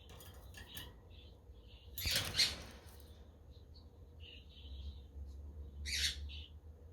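Budgerigars chirping in quick short calls. Two louder calls stand out, one about two seconds in and one about six seconds in, over a steady low rumble.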